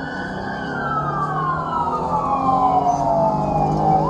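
Police car siren wailing: a tone held high, then sliding slowly down over about three seconds and sweeping quickly back up near the end. A steady low vehicle hum runs beneath it.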